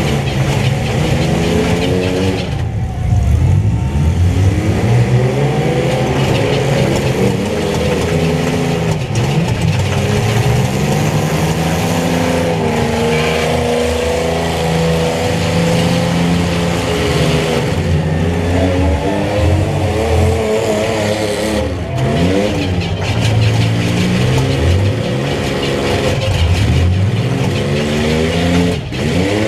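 Several mini pickup truck engines revving hard, their pitch repeatedly rising and falling and overlapping as the trucks accelerate and back off in competition.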